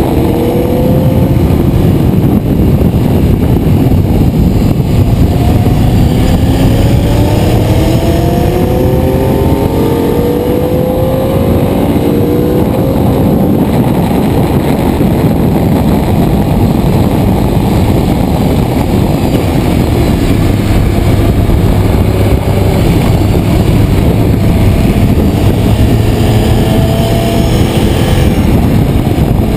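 Ducati 848 Evo's 849 cc L-twin engine under hard acceleration, its pitch climbing in repeated rising sweeps as it pulls up through the gears, with heavy wind noise over the microphone at speed.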